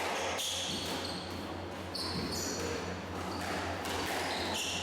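Squash rally on a court: the ball smacking off rackets and walls a few times, with shoes squeaking sharply on the court floor in between, over a steady low hum.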